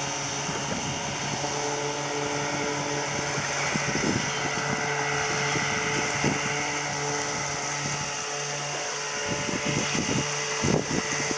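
Veterok-12 two-stroke outboard motor running steadily at speed, with wind on the microphone and a few brief thumps and splashes, most of them near the end.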